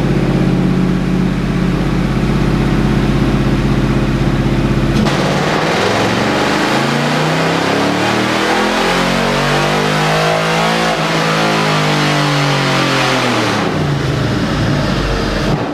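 LS-swapped 1988 Jeep Comanche's forged 383 stroker V8 running on the chassis dyno: a steady note, then about five seconds in a full pull with the revs climbing for about six seconds before falling away again.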